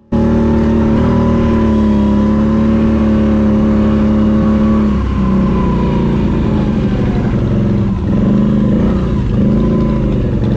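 ATV engine running at a steady idle, then wavering in pitch with short dips and rises through the second half.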